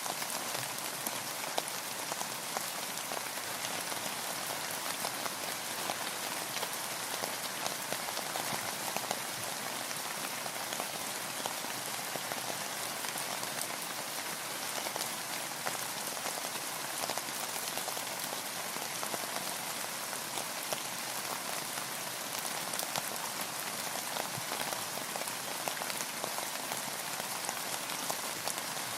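Steady rain falling on a boat: an even hiss of rainfall with many small, sharp ticks of single drops striking, with no let-up.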